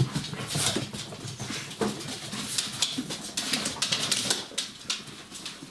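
Five-week-old border collie puppies moving about and jostling, with many small clicks and scuffles and a few faint puppy whimpers.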